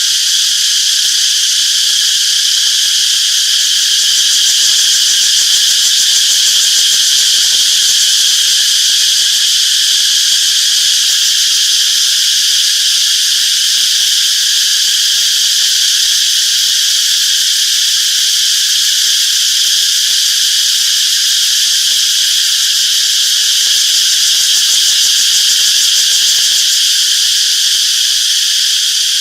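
Chorus of cicadas calling, a steady high-pitched drone that neither pauses nor changes.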